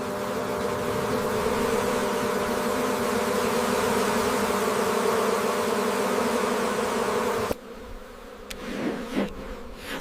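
Honeybees buzzing en masse in a steady drone, which cuts off suddenly about three-quarters of the way through, leaving a fainter sound.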